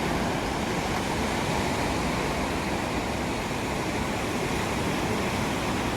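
Steady rushing of sea surf washing on the shore.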